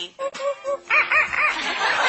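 African grey parrot imitating a chimpanzee: a run of short hoots, three lower ones followed by three higher, arching ones, then a rough, noisy stretch of sound near the end.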